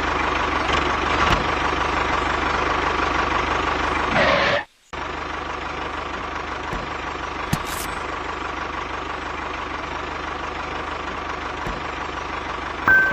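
Small motor of a DIY mini tractor running steadily, with a constant whine and a fast low pulse; a short break about four and a half seconds in, after which it runs on a little quieter.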